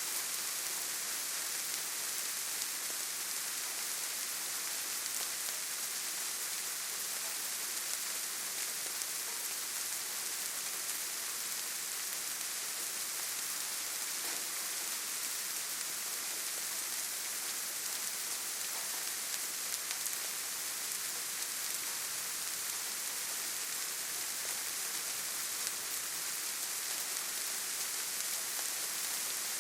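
Steady rain falling on leaves and forest ground: an even hiss with fine patter of drops, unchanging in level.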